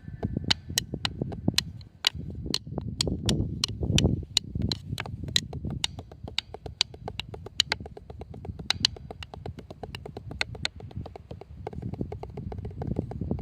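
Drumsticks striking in sharp wooden clicks, two to four a second at an uneven pace, growing sparser near the end, over a low rumble.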